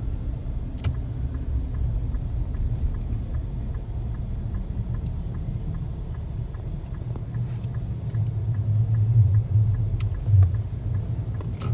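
Steady low rumble of a car driving slowly through snow, heard from inside the cabin, swelling a little near the end, with a few faint clicks.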